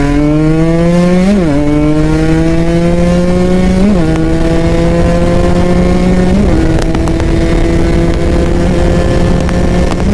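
Kawasaki Ninja RR 150's two-stroke single-cylinder engine accelerating through the gears. The pitch climbs in each gear, with three quick upshifts about a second and a half, four and six and a half seconds in. After the last shift the engine holds a steady pitch.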